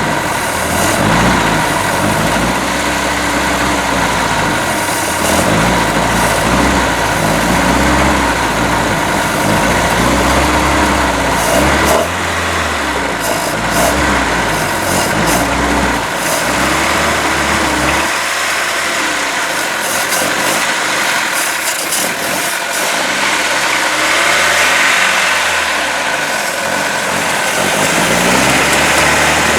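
Mercruiser 3.0 four-cylinder marine engine running rough, its speed rising and falling unevenly over and over instead of holding a steady idle: the ignition timing is off and the carburetor needs a rebuild.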